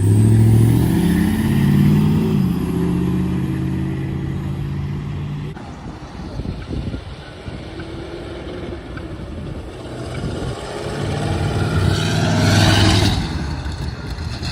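Car engines accelerating away one after another. The first revs up and changes pitch through shifts in the opening seconds, then fades. A second car comes up louder and passes about twelve to thirteen seconds in.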